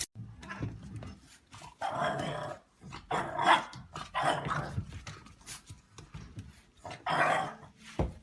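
A dog growling and barking in about four short bursts, with a few clicks and knocks between them.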